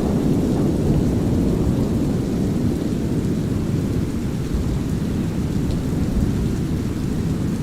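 Thunderstorm soundscape of brown noise mixed with light rain: a steady, deep rumbling hiss with no breaks.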